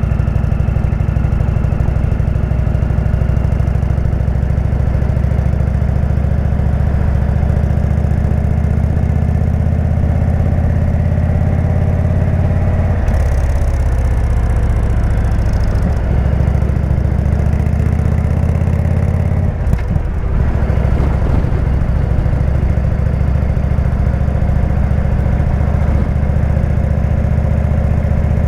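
Indian V-twin motorcycle engine with a Jekill & Hyde exhaust, running steadily under way. Its pitch sags and climbs again partway through, with a brief break about twenty seconds in, like a gear change.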